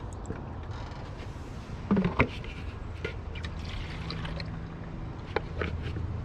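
Car running on a drive, heard from inside the cabin: a steady low engine and road hum with scattered short squeaks and creaks, and a louder knock about two seconds in. The squeaks come from the rear passenger side, which the owner puts down to original suspension bushings that are probably worn out.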